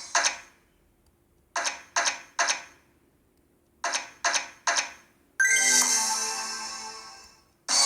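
Electronic chimes from a video slot machine. Two groups of three quick ringing notes come a couple of seconds apart, followed by a longer shimmering chime that fades away. A fresh burst of chimes starts at the very end.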